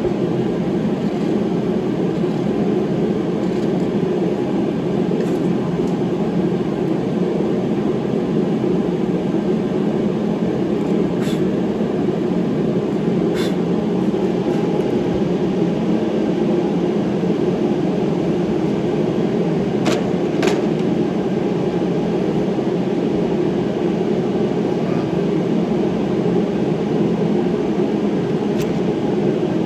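Steady mechanical drone at an even level, with a few sharp metallic clicks, twice close together about twenty seconds in.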